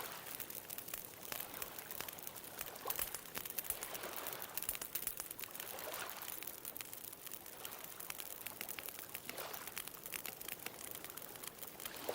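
Bonfire crackling with many quick pops and snaps, over the wash of ocean waves that swell and fall back every few seconds.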